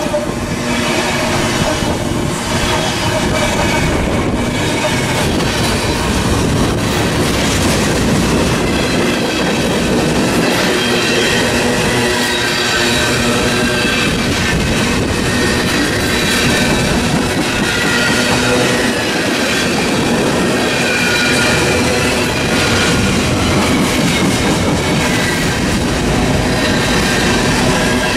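Union Pacific freight train passing close at speed. Its diesel locomotives go by first, then a string of tank cars and covered hoppers rolls past with a loud, steady wheel-on-rail rumble and clatter. From about a quarter of the way in, wavering high wheel squeals ride on top.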